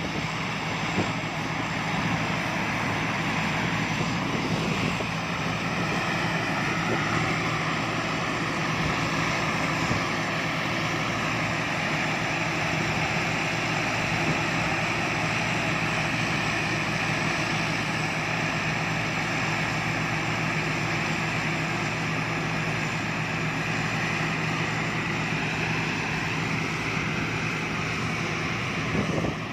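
Rice combine harvester running steadily: a constant engine and machinery drone with a held low hum.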